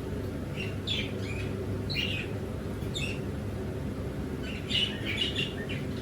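Pet birds chirping in short calls, a few at a time at first, then a quicker, louder run of chirps near the end, over a steady low hum.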